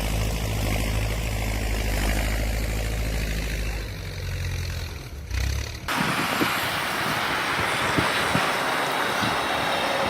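Low, steady engine rumble of a heavy vehicle. Near six seconds it breaks off abruptly into a steady hiss with scattered knocks.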